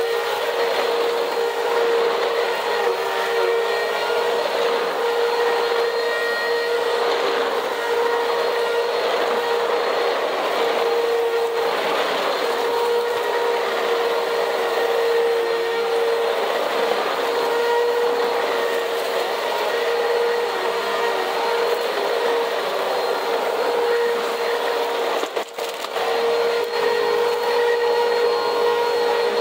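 Old Bissell CleanView upright vacuum running steadily with a strong, even motor whine, picking up dirt and grit off a cement floor; the owner thinks its motor is about to go. The sound drops out briefly about 25 seconds in.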